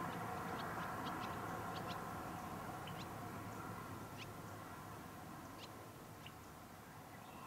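Birds chirping: a scattered series of short, high calls over a steady background hum that slowly fades away.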